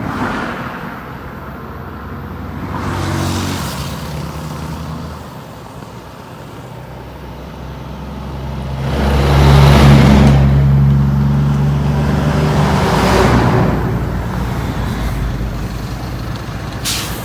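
Heavy trucks' diesel engines running as trucks pass by in traffic, one passing loudest about ten seconds in, with several hissing rushes of passing noise.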